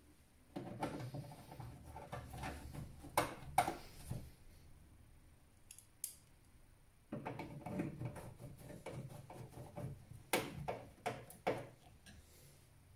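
Hands working on a desktop PC case: two stretches of rustling and scraping, punctuated by several sharp clicks.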